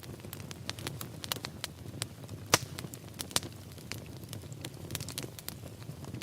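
Wood fire in a fireplace crackling, with a steady low rumble of flames under frequent sharp pops and snaps; the loudest pop comes about two and a half seconds in, another just under a second later.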